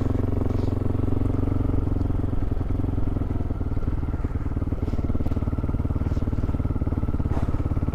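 Motorcycle engine running steadily while the bike is ridden, its fast even firing pulses holding at a constant pitch.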